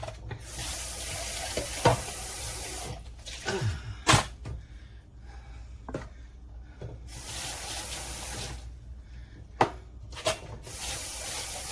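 Kitchen tap running in three spells of a couple of seconds each, with a few sharp knocks in between.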